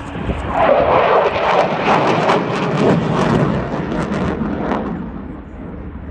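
Eurofighter Typhoon's twin EJ200 turbofans as the jet passes: a loud rush of jet noise shot through with crackle. It swells about half a second in, then drops in pitch and fades over the last couple of seconds as the aircraft goes away.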